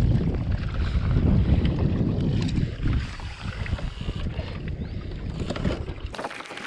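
Strong wind buffeting the camera microphone, a heavy low rumble. It cuts off abruptly near the end to a much quieter background.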